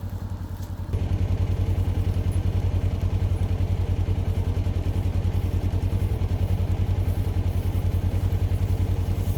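An engine running steadily with a fast, even pulse, getting louder about a second in and then holding.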